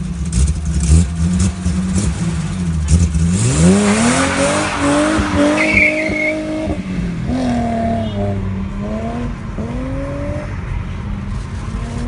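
BMW E30 325i's 2.5-litre straight-six through its exhaust: a few short throttle blips, then the engine note climbs as the car accelerates away. The pitch falls back at each gear change, about seven and ten seconds in, and rises again, growing fainter toward the end.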